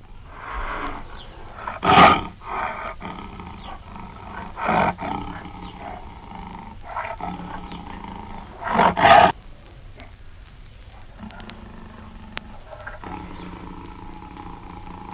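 A big cat roaring and growling, with the loudest roars about two seconds in and again about nine seconds in.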